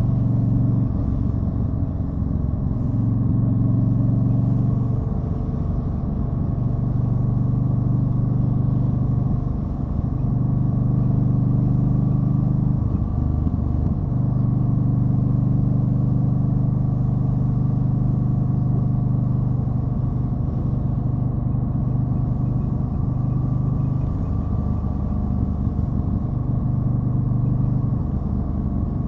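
2013 Yamaha Stryker's V-twin engine running under way, its pitch stepping up or down several times as engine speed changes.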